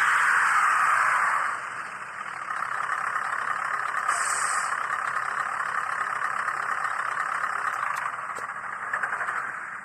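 Tiny electric drive motor and gearing of a 1:87 scale RC model truck whirring steadily, easing off about a second and a half in, then stopping near the end.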